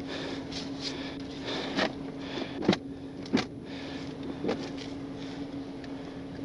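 Steady hum of a running vehicle, with several short sharp clicks, the loudest about three seconds in.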